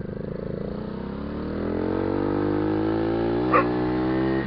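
A 49cc motorcycle engine accelerating, its pitch rising steadily, with one short dog bark about three and a half seconds in.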